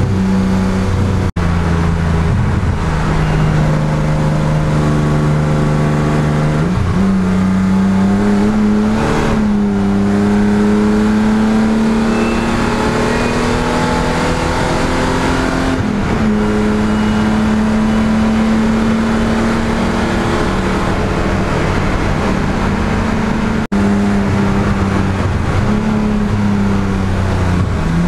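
BMW E12 M535i's 3.5-litre straight-six heard from inside the cabin under hard track driving. The engine note climbs slowly and steps down sharply at gear changes about two and a half seconds in and again near sixteen seconds, and steps up about seven seconds in.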